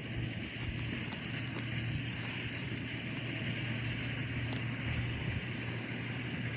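A small engine running steadily at a constant speed, with a low hum.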